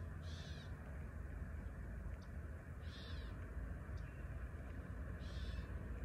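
Birds calling back and forth: three short, high calls about two and a half seconds apart, over a steady low rumble.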